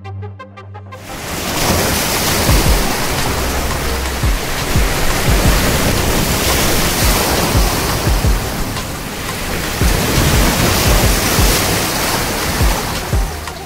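Ocean surf on the shore: a loud, steady rush of waves that sets in about a second in, with low thuds running through it.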